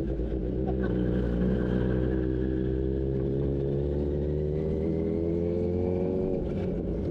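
Kawasaki Z900 inline-four engine running at idle with a steady note. Its pitch creeps up slightly over the first few seconds and drops back a little near the end.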